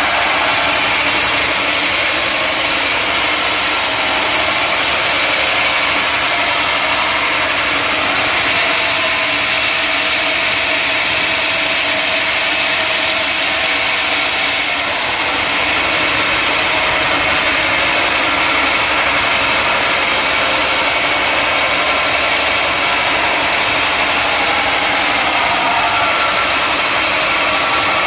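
Sawmill machinery running steadily and loudly without a break.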